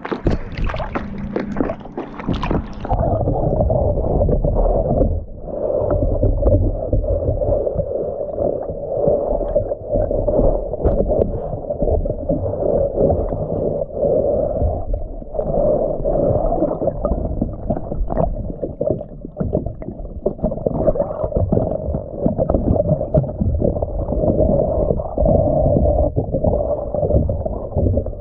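Splashing as the diver goes under the surface, then from about three seconds in the muffled underwater sound of a scuba diver at work cleaning a hull: regulator breathing and gurgling exhaled bubbles, with repeated short scrubbing strokes.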